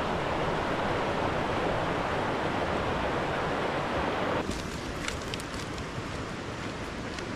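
Steady rush of a river's flowing water, becoming quieter and duller about four and a half seconds in, with a few faint short high sounds after that.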